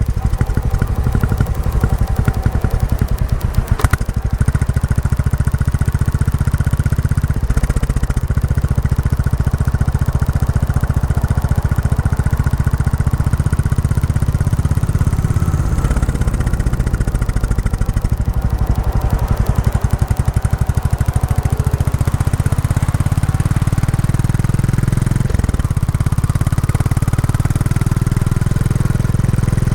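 Royal Enfield Classic 350's single-cylinder engine running through its stock exhaust while riding, a steady beat of firing pulses with small shifts in engine speed. A brief sharp click about four seconds in.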